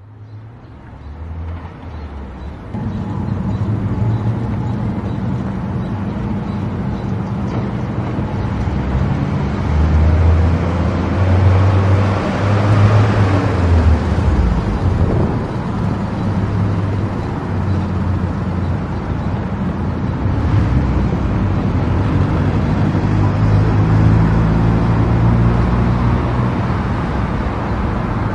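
Car driving on an expressway: steady engine hum and tyre road noise that fades in over the first few seconds and then holds, swelling and easing slightly.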